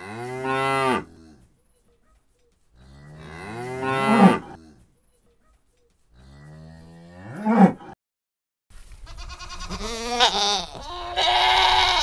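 Cattle mooing: three separate moos of one to two seconds each, each swelling louder toward its end, then a longer moo with more background noise from about nine seconds in.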